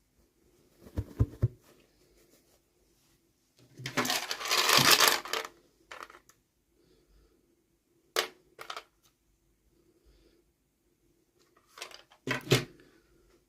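Small plastic toy pieces and packaging being handled by hand: a few sharp clicks and taps, and a longer rustle about four seconds in that lasts over a second and is the loudest part.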